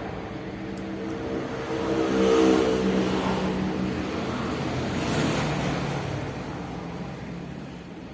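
Suzuki GT750 two-stroke triple engine running and revved up twice, about two seconds in and again about five seconds in, then settling back.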